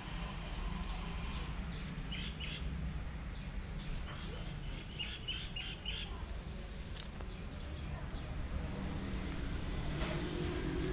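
Small birds chirping in two brief clusters of short high chirps, about two and five seconds in, over a steady low outdoor rumble.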